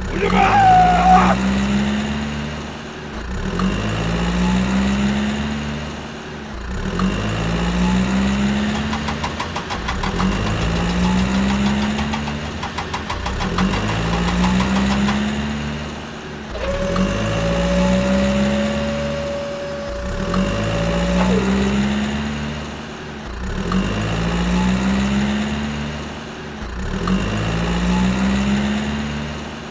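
Tractor engine running and revving up over and over in an even cycle about every three seconds, each cycle rising in pitch. A steady tone sounds for about four seconds in the middle.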